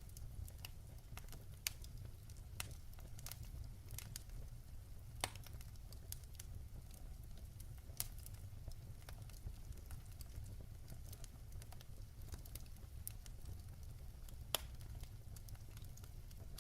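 Log fire burning with a steady low rumble and scattered sharp crackles and pops, the loudest single pops about 5, 8 and 14.5 seconds in.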